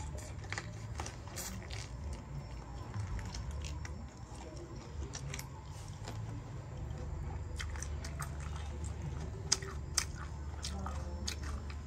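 Someone biting and chewing boiled chicken feet, with scattered wet mouth clicks and smacks over a steady low hum. Two sharp clicks come about nine and a half and ten seconds in.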